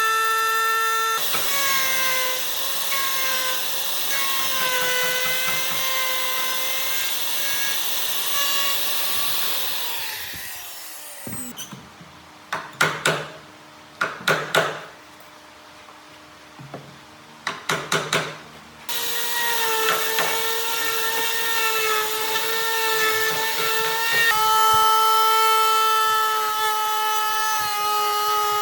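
Electric power tool motor running with a whine whose pitch wavers as it works the wood. About ten seconds in it is switched off and winds down, followed by several sharp knocks. A few seconds later it starts up and runs again.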